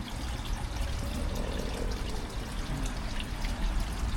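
Steady pouring and trickling of water falling into a koi pond.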